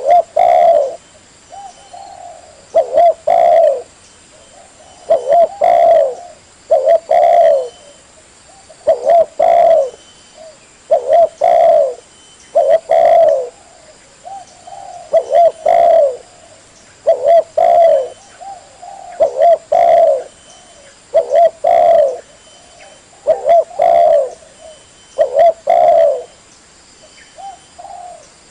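Spotted dove (tekukur) cooing: loud, low coo phrases repeated over and over, one about every two seconds.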